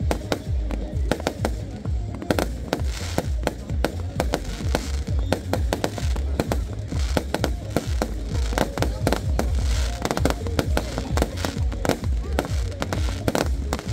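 Aerial fireworks bursting in quick, irregular succession, sharp bangs and crackles following one another without a break, with music playing underneath.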